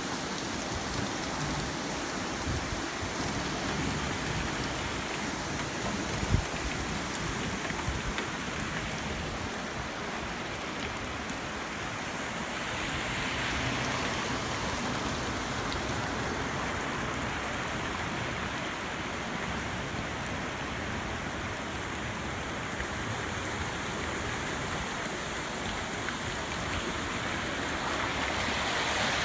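Steady rush of water from a flooded yard, with one brief knock about six seconds in.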